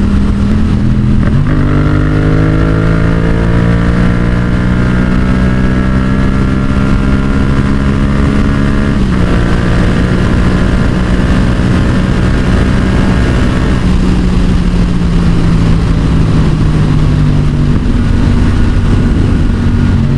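Yamaha XSR700's parallel-twin engine under load at highway speed through a Yoshimura exhaust, with heavy wind rushing over the microphone. It upshifts about a second in and again about nine seconds in, the pitch dropping each time and then climbing as it pulls. The engine note then sags slowly and jumps back up near the end, as on a downshift.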